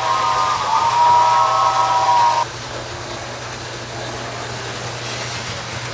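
Playback of an old radio-show recording: a held chord of several steady tones cuts off suddenly about two seconds in, leaving tape hiss and a low steady hum.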